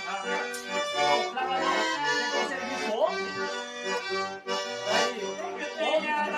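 Accordion music with a bass line of short, changing notes.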